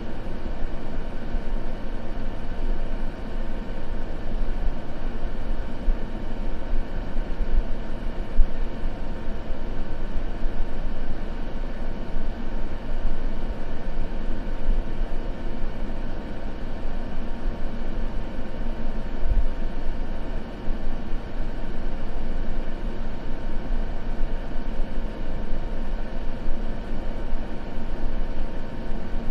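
Continuous white-noise sleep ambience: a steady, deep rushing noise weighted toward the low end, with a faint steady hum running through it and no rhythm or breaks.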